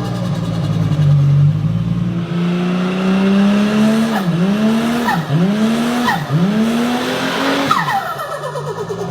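Turbocharged car engine revving, its pitch slowly climbing, then dipping and recovering three times in quick succession. Each dip has a falling whistle-like tone and a short click. Near the end the revs and the whistle fall away.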